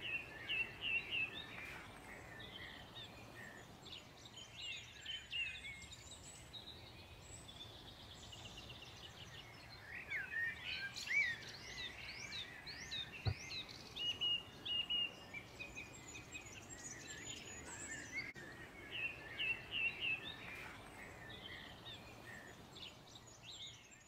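Woodland birds singing and calling, a mix of chirps, whistled notes and quick runs of repeated notes that come and go throughout, over a faint steady hiss.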